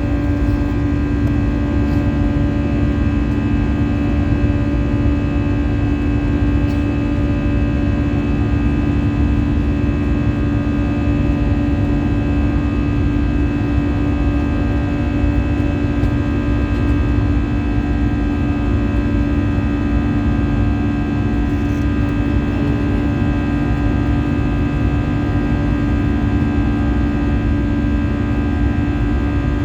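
Steady engine drone inside the cabin of an Airbus A320-214 with CFM56-5B engines: a low rumble with a strong hum and several fixed tones held at constant power.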